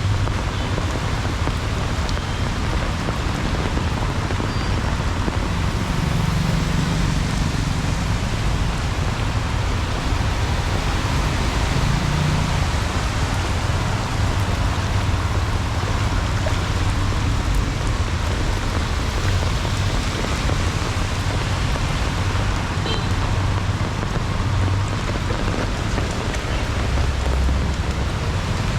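Heavy rain falling steadily, with a low rumble of passing traffic that swells and fades several times.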